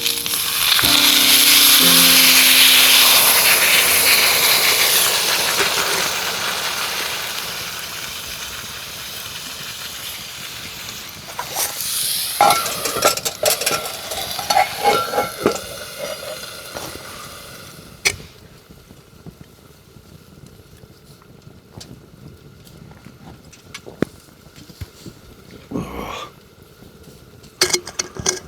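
Food sizzling loudly in a hot pan, the hiss swelling about a second in and slowly dying away, with metal utensils clinking and scraping against the pan partway through.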